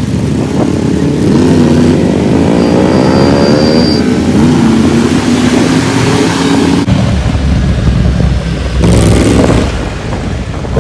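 Yamaha R1's inline-four engine under hard acceleration, its note climbing over the first few seconds and holding high. About seven seconds in the note drops abruptly, then climbs again near the end, with a steady rushing noise underneath.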